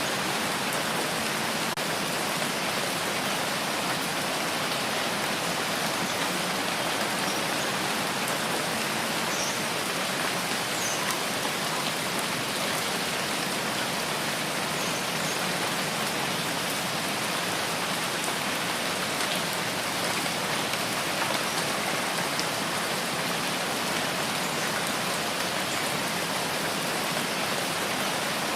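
Steady rain falling, an even hiss of many drops with a few faint individual drip ticks.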